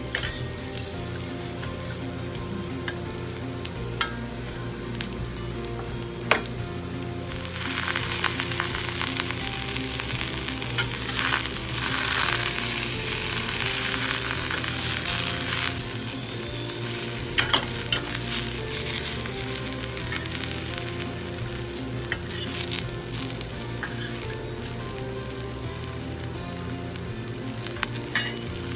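Dried anchovies and shishito peppers sizzling as they fry in a stainless steel pan, with a few sharp clicks of stirring against the pan. The sizzle swells suddenly about seven seconds in, as the peppers go into the hot pan, and eases again after about sixteen seconds.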